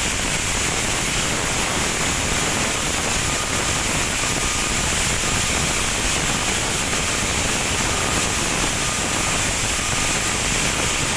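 Sandblasting nozzle blasting abrasive against a ship's hull: a steady, loud, hissing rush with no breaks, with a faint thin whistle coming and going.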